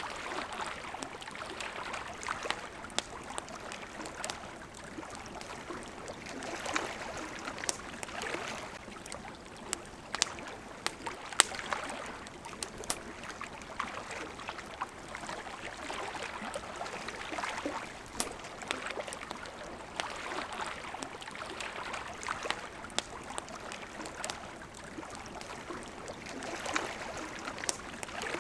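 Water lapping and flowing at a shore in slow, irregular swells, with sharp crackles and pops from a wood campfire scattered through it.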